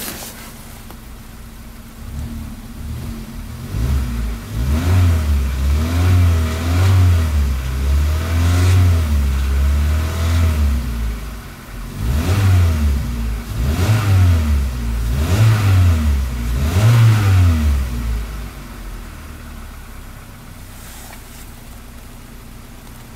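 2014 Hyundai Accent's 1.6-litre four-cylinder petrol engine idling at about 1,000 rpm in neutral, then held at raised revs for several seconds, rising and falling. Four short throttle blips follow before it settles back to a steady idle near the end.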